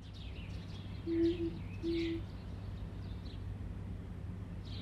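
Birds calling: short, low, steady hoots, a pair about a second in and another about two seconds in, over thin, higher chirps.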